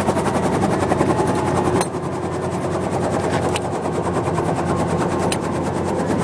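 Helicopter running close by, its rotor blades beating in a steady fast chop over the engine noise.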